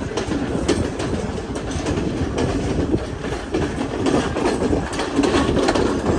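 Passenger train running along the track: a steady rumble of the carriages with irregular sharp clacks of the wheels over rail joints.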